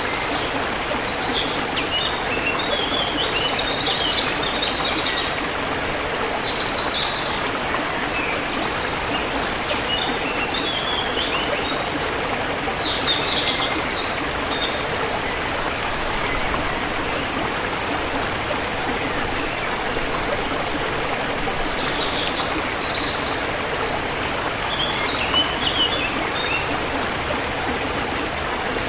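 Steady rush of a forest river or stream flowing, with birds chirping now and then over it in short bursts of high calls.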